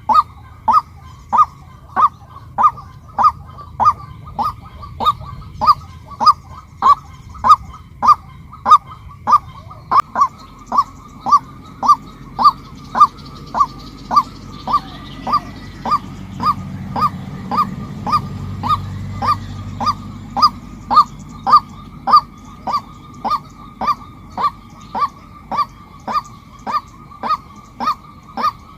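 Female white-breasted waterhen calling, a short note repeated steadily about one and a half times a second without a break. A low rumble rises under the calls in the middle and fades again.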